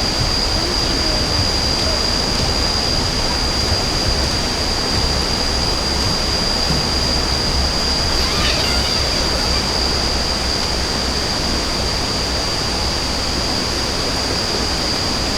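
Steady rushing water noise, even and unbroken, with a thin high-pitched whine held steadily on top.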